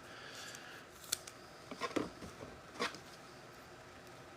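Soft handling noises of trading cards: a few brief clicks and rustles as the cards are shuffled in the hands, over quiet room tone.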